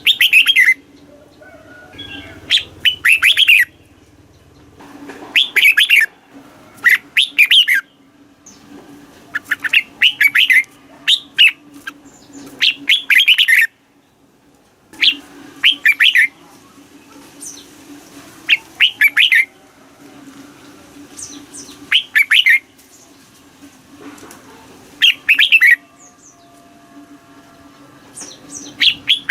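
Red-whiskered bulbul singing: short, loud, warbling phrases repeated every two to three seconds, with a faint steady low hum beneath.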